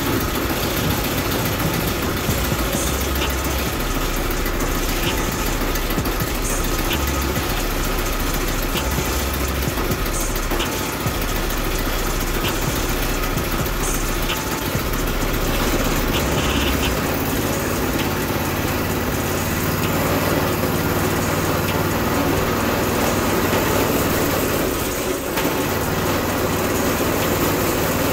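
Predator 212 single-cylinder engine idling with a steady, continuous sound, its carburetor in need of cleaning.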